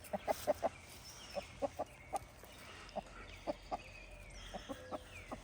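Backyard chickens giving short, soft clucks, scattered irregularly, a dozen or so in a few seconds.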